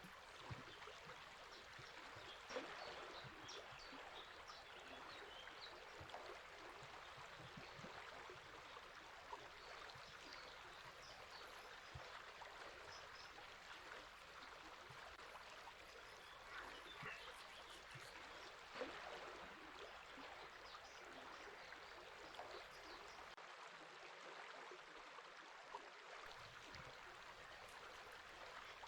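River water flowing and babbling faintly and steadily, with small splashes and trickles scattered through it.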